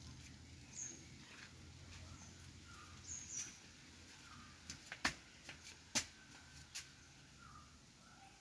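Outdoor ambience with a bird repeating a short chirp about once a second, and a few higher chirps. Around the middle come several sharp clicks, the loudest two about a second apart.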